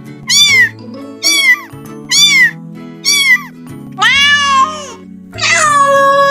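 A cat meowing: four short, quick meows about a second apart, then a longer meow, then a long drawn-out meow near the end. Background music with steady low chords plays underneath.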